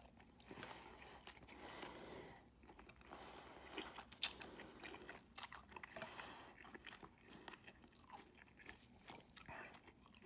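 Faint close-miked chewing of tuna lemon pasta and baked zucchini: soft wet mouth clicks and smacks, with one sharp click about four seconds in.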